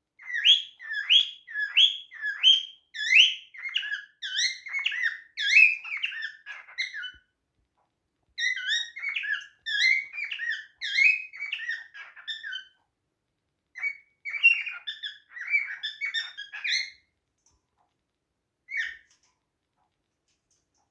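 Cockatiel chirping: quick runs of short whistled chirps, several a second, in three bouts with brief pauses, then one last chirp near the end.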